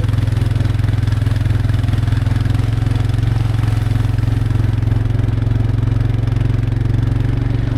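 Vehicle engine running at a steady speed, a constant low drone with no change in pitch.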